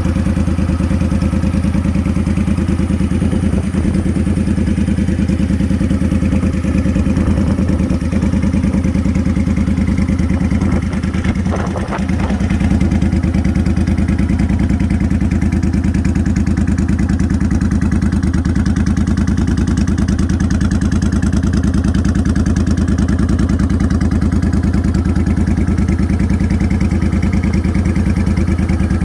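Motorcycle engine running steadily without revving, with a brief dip in level about twelve seconds in.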